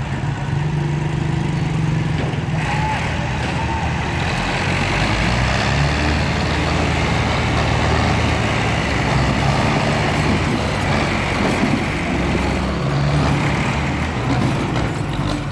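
Tractor diesel engine running steadily under load, with the engine noise growing fuller about two and a half seconds in.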